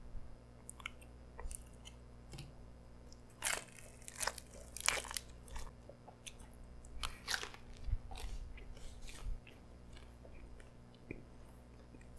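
Mouth chewing a bite of pretzel dog, its crusty pretzel-dough crust crunching in bursts of sharp crunches, the loudest about three and a half to five seconds in and again around seven to nine seconds in.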